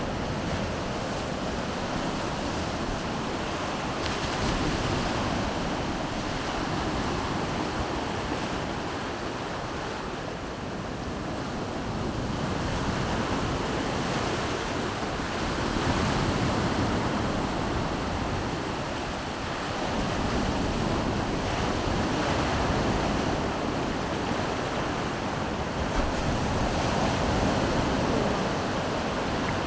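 Baltic Sea surf breaking and washing on the shore, a steady wash that swells and eases every few seconds, with wind on the microphone.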